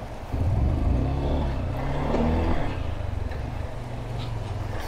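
Motorcycle engine moving off about a third of a second in and running in low gear, its pitch rising briefly about two seconds in as it picks up revs.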